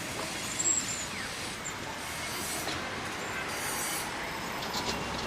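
Steady vehicle and traffic noise, with a brief faint high squeal about a second in.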